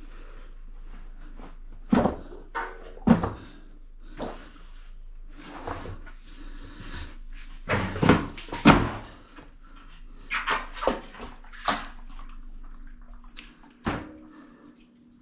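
Irregular knocks and clatter of hard parts being handled and set down, a dozen or so sharp hits with a few loud ones, over a faint steady hum.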